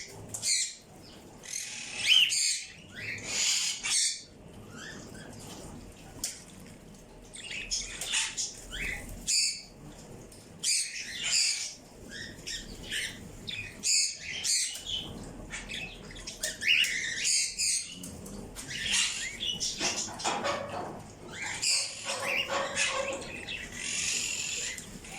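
Several birds chirping and calling, short high chirps coming in irregular clusters with brief lulls.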